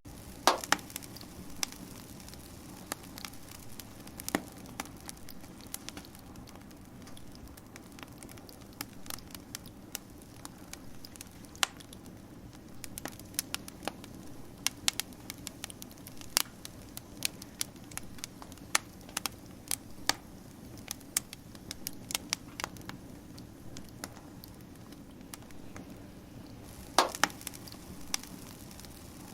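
Wood fire crackling, with irregular sharp pops and snaps over a steady low hum from the burning. The loudest pops come about half a second in and again near the end.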